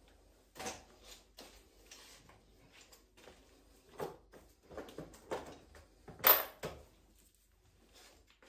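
Scattered knocks and clatter of parts and tools being handled. The loudest is a sharp knock about six seconds in, with a brief high ring.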